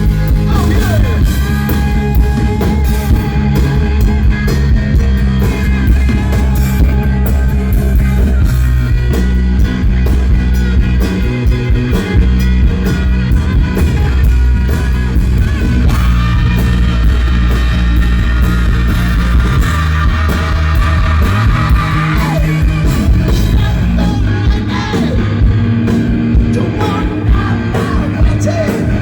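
Live hard rock band playing loud, with a singer over electric guitars, bass and a drum kit.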